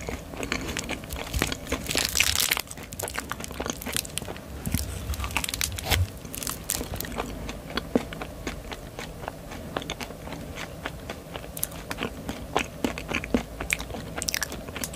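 Close-miked chewing and biting of candy, with dense irregular crunching clicks and a louder crunch about two seconds in.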